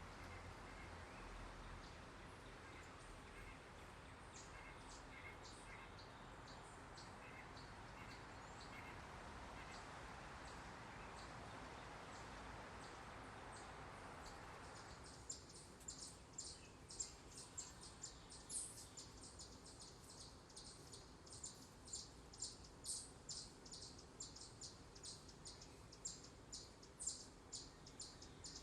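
Small birds chirping faintly: scattered high calls over a soft steady hiss at first, then, once the hiss cuts off about halfway through, a quick run of short high chirps, several a second.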